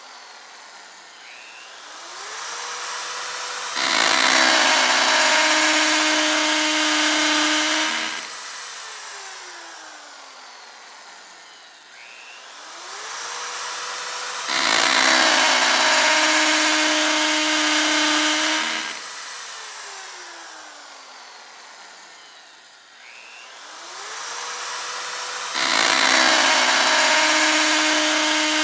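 Electric drill cycling three times, about every eleven seconds: the motor whines up in pitch, runs loud and rough for about four seconds as it drills, then winds down with a long falling whine.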